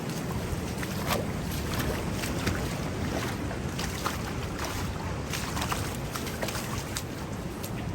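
Rain falling on a beach, with scattered sharp drop taps close by, over the steady wash of surf and wind buffeting the microphone.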